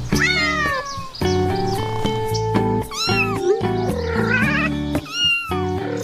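Cat meows over background music: three drawn-out meows that rise and fall in pitch, one at the start, one near three seconds in and one about five seconds in, with a short wavering cry between the last two.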